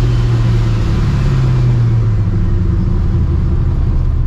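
Straight-piped, Procharger-supercharged 5.4-litre two-valve Ford V8 running with a loud, steady exhaust drone that drops in pitch about two seconds in as the revs fall.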